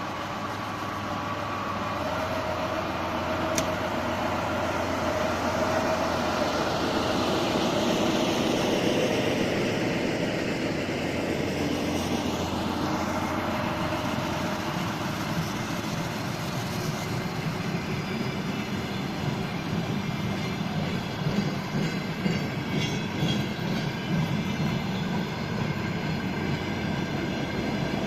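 DR1A diesel multiple unit pulling out of the station: its diesel engines run under load and the train's running noise grows louder over the first several seconds, with short wheel clicks over rail joints in the later part.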